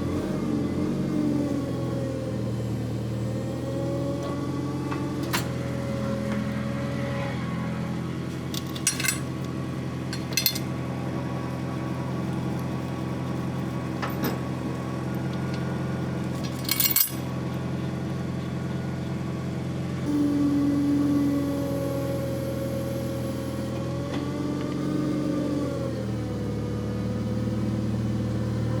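Forklift engine running, its pitch rising and falling as it is worked, with several short sharp knocks in the middle.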